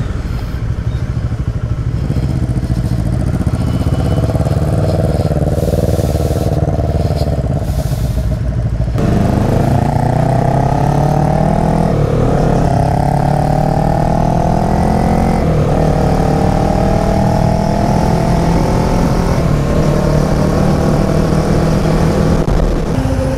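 Bajaj Dominar motorcycle's single-cylinder engine pulling away and accelerating through the gears. Its note climbs and drops back at each upshift, a few times from about nine seconds in.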